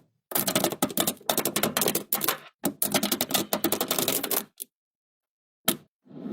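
Small magnets clicking and snapping together in two rapid runs of about two seconds each, then a single click near the end.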